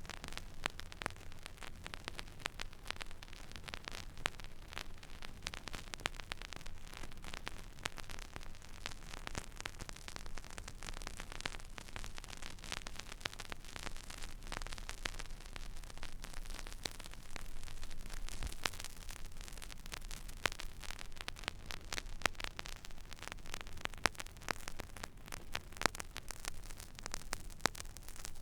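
Stylus riding a silent groove on a vinyl record: steady surface hiss with dense, irregular crackle and pops, over a faint low rumble.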